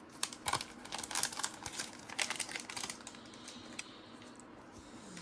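Stiff cardboard trading cards being flicked and slid through by hand, a quick run of light clicks and snaps that dies down after about three seconds.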